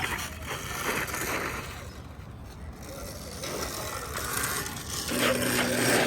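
Electric dirt bike's drivetrain clicking and rattling, with a steady motor hum starting about five seconds in.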